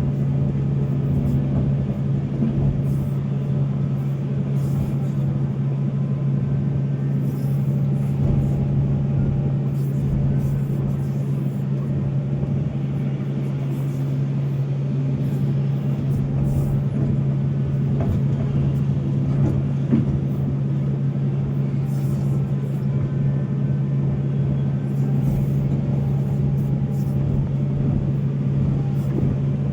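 Volvo excavator's diesel engine running at a steady pitch, with one brief click about two-thirds of the way through.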